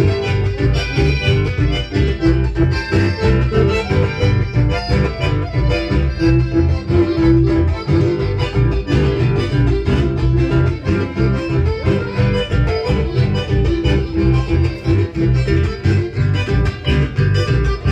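A band playing dance music: guitar over a steady, heavy bass beat that keeps an even rhythm throughout.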